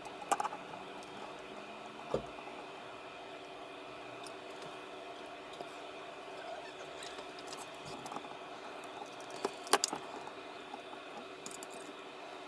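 Steady humming background made of several tones, with a few short sharp clicks and taps of small parts being handled on a workbench, the loudest near the end.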